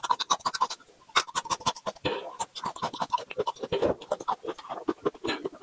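Crunchy chewing of a raw peeled garlic clove close to the microphone: a dense run of rapid wet crunches and mouth clicks.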